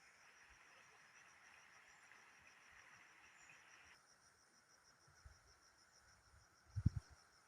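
Faint insects trilling, a steady high pulsing chirr. A second hissing layer stops suddenly about halfway, and a few low thumps come near the end, the loudest a short double thump.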